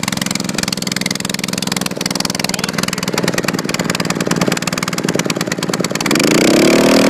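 Small Honda engine on a wood splitter running steadily, freshly cold-started. About six seconds in it revs up and holds a higher, louder speed.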